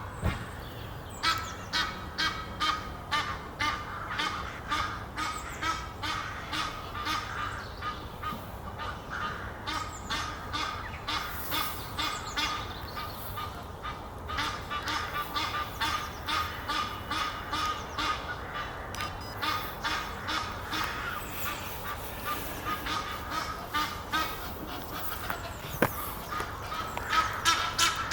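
A pair of Egyptian geese calling in long runs of rapid, repeated honks and hoarse notes, several a second, growing louder near the end.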